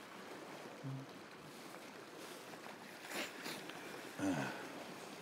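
Sea waves washing against shore rocks, a steady wash of surf noise. About three seconds in a brief louder burst stands out, and just after four seconds comes a short low vocal sound.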